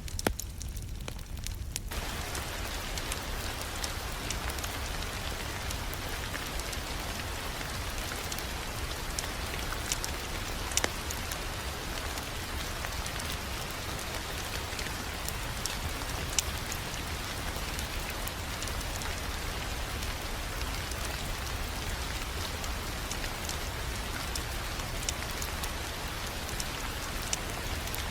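Ambient fireplace sound: wood fire crackling with scattered sharp pops over a steady rain-like hiss and a low rumble. The hiss fills in about two seconds in.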